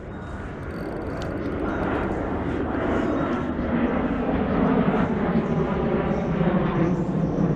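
Low engine drone of an aircraft flying over, growing steadily louder.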